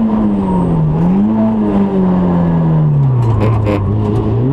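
Onboard sound of a Citroen Saxo N2 rally car's four-cylinder engine under load. The revs dip briefly about a second in and recover, then fall steadily and pick up again near the end. Short crackles come through around three and a half seconds in.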